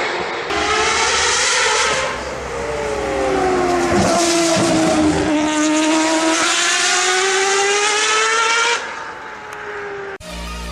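Race car engine at high revs, its pitch sagging and then climbing steadily for several seconds before dropping away about nine seconds in. Electronic music starts just before the end.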